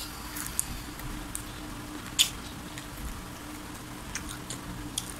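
Crispy fried chicken being bitten and chewed: a bite at the start, then scattered sharp crunches of the crispy coating, the loudest a little past two seconds in.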